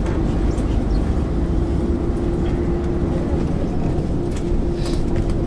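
MAN ÜL 353 intercity bus diesel engine running under way, heard from inside the bus: a steady low rumble with a steady whine held over it and a few light rattles.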